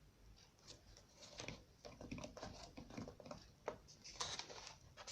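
Faint rustling and light irregular taps of thick colouring-book pages being handled and turned.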